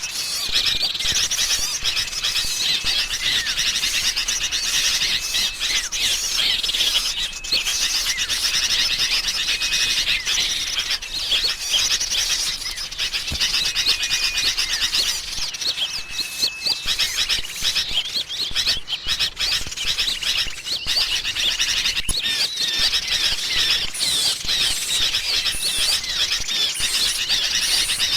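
Dense, agitated chattering of sooty-headed bulbuls mixed with other small songbirds, many calls overlapping without a break, with short level whistles every couple of seconds. It is a bird-trapping lure recording of a noisy bulbul flock.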